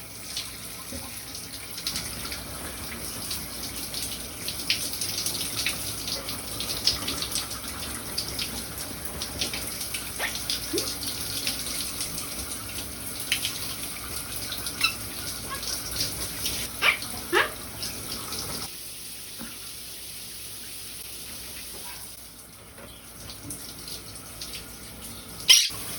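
Shower spray running steadily, with a Quaker parrot giving short chirps and squeaks every few seconds. A sharp click sounds just before the end.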